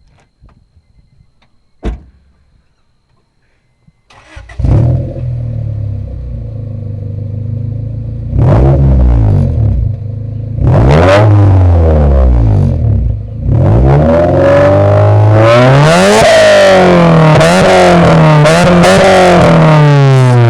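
A 1993 Honda Del Sol's four-cylinder engine, breathing through a Tenrai catback exhaust, starts about four seconds in and settles to idle. It is then revved in blips, twice, and from about halfway through it is blipped over and over with the revs rising and falling. The sound comes through a phone's microphone, which makes it loud and harsh.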